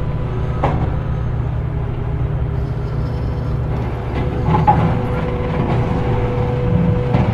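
A heavy vehicle engine running as a steady low rumble, with a few light clicks and a thin steady whine joining about halfway through; it cuts off abruptly at the end.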